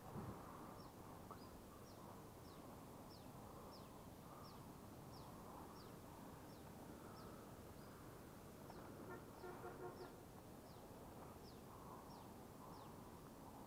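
Faint woodland ambience in which a bird repeats a short, high, downward-falling note about twice a second. About nine seconds in, a brief, louder pitched call from another animal stands out.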